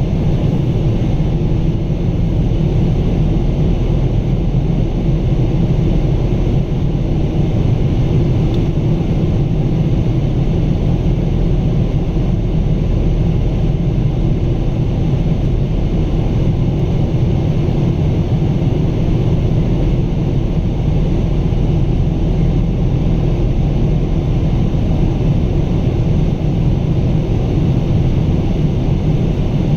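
Steady engine and airflow noise of a Boeing 777-200 climbing on its Pratt & Whitney PW4000 turbofans, heard from the passenger cabin: a deep, even drone under a lighter hiss, with no change in level.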